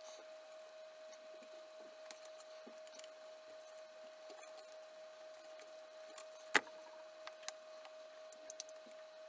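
Faint scattered clicks and taps of small parts and tools being handled, with one sharper click about two-thirds of the way through, over a steady faint tone.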